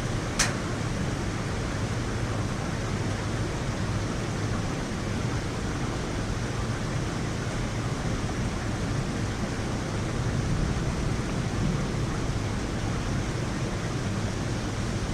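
Heavy rain falling steadily, a dense even hiss, with one sharp tap about half a second in.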